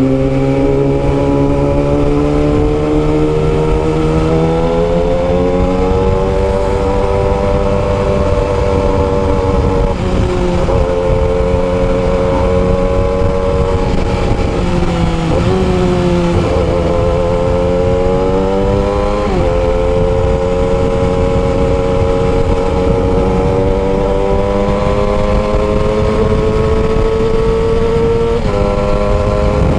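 Yamaha R6 600cc inline-four sport bike running through a custom exhaust while being ridden. The engine note climbs slowly and drops sharply several times as gears change. Wind noise rushes on the microphone.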